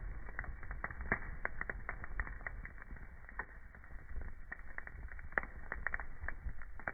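Wood fire burning in a fireplace, crackling with irregular sharp pops and snaps over a steady low rumble, with louder pops about a second in and again near the end.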